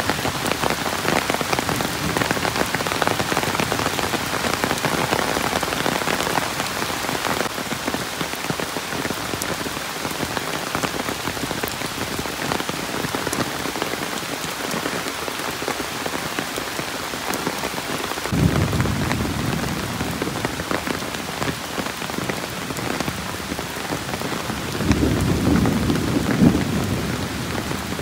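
Rain falling steadily: a dense, even hiss of drops. It is broken by two low rumbles, one about two-thirds of the way through and a louder one near the end.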